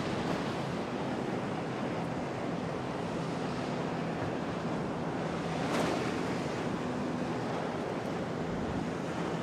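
Storm waves and wind at a harbour: a steady rush of surf and wind, with wind buffeting the microphone and a faint steady low hum underneath. About six seconds in there is a brief louder surge.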